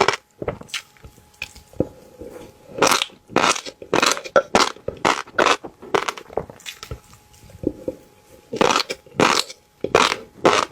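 Close-up eating sounds of someone biting and chewing fish roe: crisp crunching bites in irregular runs, with short softer pauses between them.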